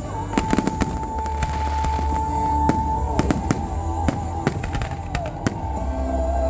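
Fireworks display: a rapid, irregular run of sharp bangs and crackles from bursting aerial shells, over music with a long held note.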